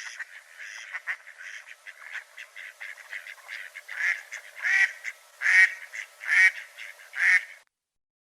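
Waterfowl calling: a run of quick, overlapping calls, then five louder calls a little under a second apart. The sound cuts off suddenly near the end.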